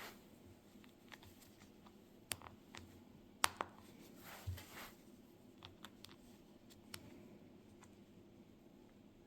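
Faint scattered clicks and rustles of small plastic parts being handled, with a sharper click about three and a half seconds in: safety eyes being fitted into a crocheted piece, their backs pushed onto the posts.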